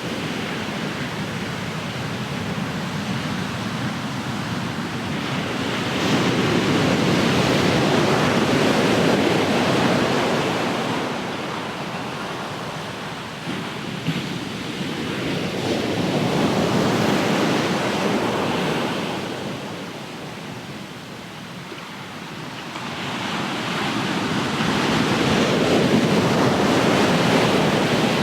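Ocean waves breaking and washing up the shore, swelling and falling away in three surges about ten seconds apart.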